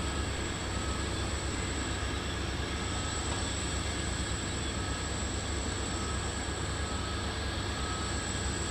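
Steady low rumble of distant jet aircraft engines.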